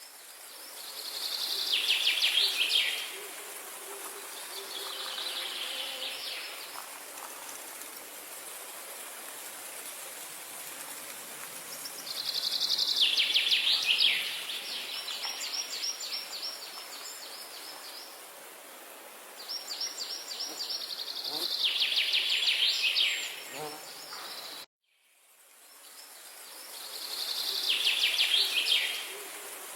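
A songbird singing a fast, loud trill that swells and then drops in pitch, repeated four times, over a steady high-pitched hiss of insects. The sound cuts out completely for a moment about 25 seconds in, then the same song returns.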